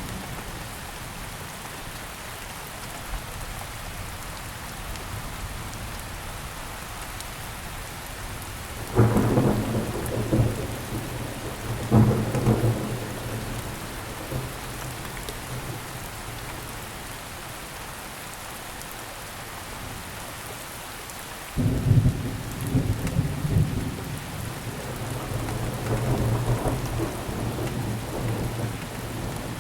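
Steady rain falling, with thunder: two sharp cracks rolling into rumble about a third of the way in, and another clap near two-thirds that rumbles on to the end.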